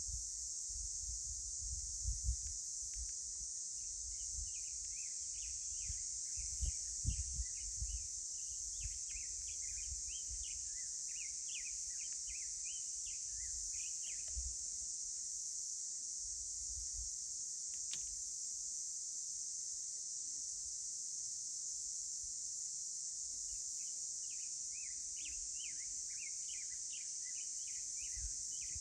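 Outdoor canyon ambience: insects keep up a steady high-pitched drone, while birds chirp in quick bouts, busiest in the first half and again near the end. Intermittent low rumbles come and go, mostly in the first several seconds.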